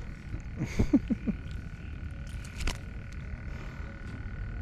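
Frogs calling around the pond as a steady high-pitched chorus, with a few short low calls about a second in and a sharp click near the middle.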